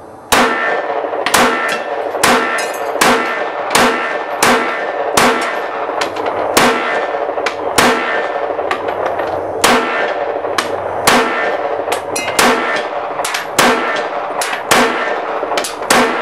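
Glock 19 Gen4 9 mm pistol firing Winchester White Box ball, a string of about fifteen single shots at an uneven pace of roughly one a second, each shot ringing out after the crack. The pistol cycles every round without a malfunction.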